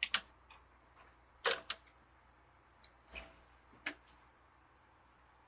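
Plastic Lego pieces being handled, giving a handful of short, scattered clicks and taps.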